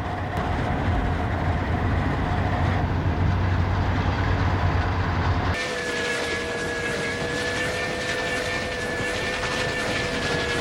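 Santa Fe 3759, a 4-8-4 Northern steam locomotive, running at speed with a steady low rumble. About five and a half seconds in the sound changes abruptly to its chime whistle blowing one long held chord.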